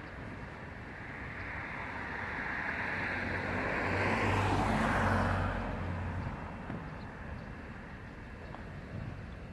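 A motor vehicle passing close by: its engine and tyre noise swells over a few seconds, is loudest about halfway through with a low hum, then falls away.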